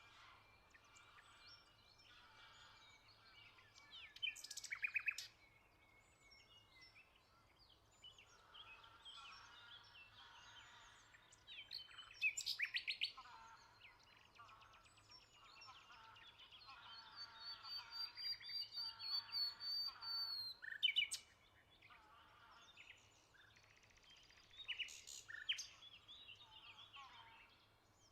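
Several songbirds singing and calling together, a mix of chirps and trills. A closer bird sings loud phrases a few times, and one long run of quickly repeated notes builds up over several seconds before stopping abruptly.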